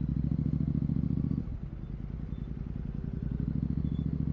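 Royal Enfield Continental GT 650's parallel-twin engine running through a Red Rooster aftermarket exhaust with the dB killer removed. The pulsing exhaust note is strong at first, eases off about a second and a half in as the throttle is closed, then builds up again as the throttle reopens.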